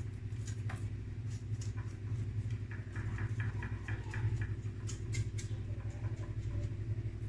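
A spoon lightly tapping and scraping as it presses a buttered biscuit-crumb base into a mould, with a quick run of small clicks near the middle, over a steady low hum.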